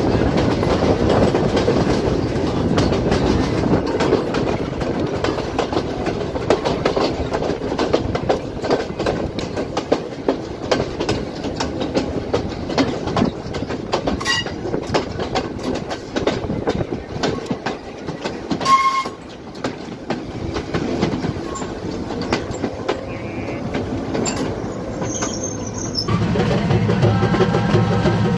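Passenger train running along the track, heard from an open window or doorway: a steady rumble of wheels on rails with a rapid clatter of clicks from the rail joints. A short high tone sounds about two thirds of the way through, and near the end the rumble grows louder.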